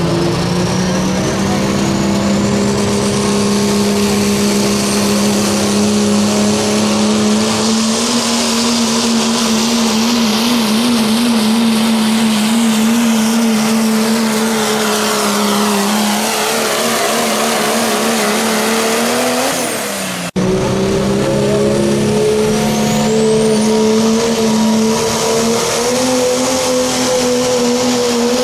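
Turbocharged diesel pickup truck engine running flat out at high, nearly steady rpm during a sled pull, with a high whistle that sweeps down in pitch. About twenty seconds in the sound drops away and cuts abruptly to another truck running at full power.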